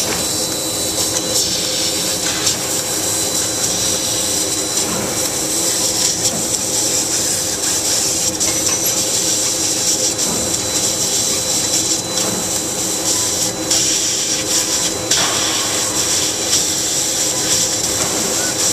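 LVD laser cutting machine running and cutting: a steady high hiss over a low mechanical hum, with brief changes in the hiss now and then.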